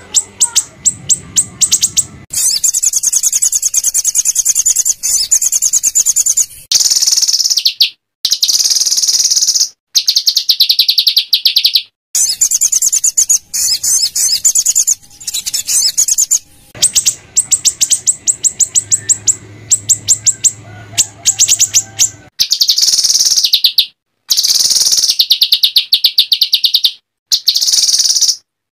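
Small songbird's rough, rapid chattering 'shots', many harsh high notes a second. They come in bursts of a few seconds that cut in and out abruptly, as in an edited, looped training recording played to teach a white-rumped shama.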